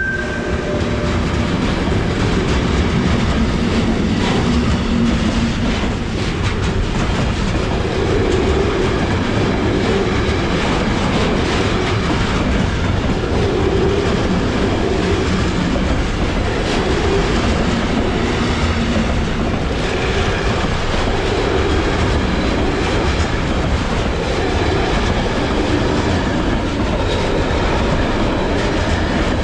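Freight train passing, its wagons rolling steadily and loudly with wheels clicking over the rail joints.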